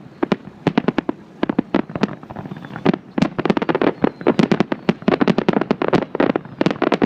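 Fireworks display going off in a rapid string of bangs, several a second, thinning briefly about two seconds in and growing denser again from about three seconds.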